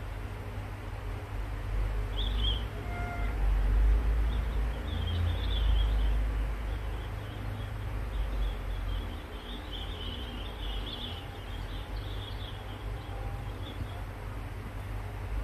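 Outdoor ambience: a low rumble that swells and fades, loudest a few seconds in, with small birds chirping high and thin in scattered runs through the middle and second half.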